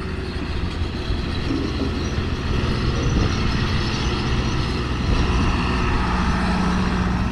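Engines running steadily: a low rumble with a steady hum that grows stronger about five seconds in.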